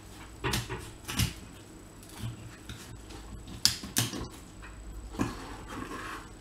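Knife cutting through a raw chicken, with about five sharp, irregular knocks of the blade against the chopping board.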